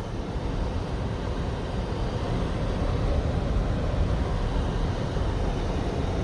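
Car driving slowly on a snow-covered road, heard from inside: a steady noise of engine and tyres on snow, with no single event standing out.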